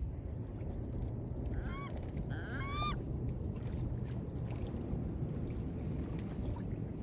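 Seagulls crying: two short bursts of harsh, upward-bending calls about two seconds in, over a steady low rush of wind.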